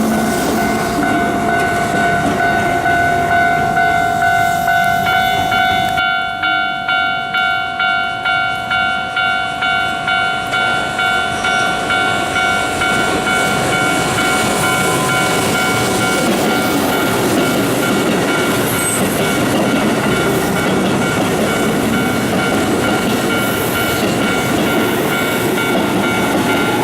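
Keihan electric train running through the station, with a steady high whine throughout. For several seconds in the middle the wheels clack over rail joints about twice a second.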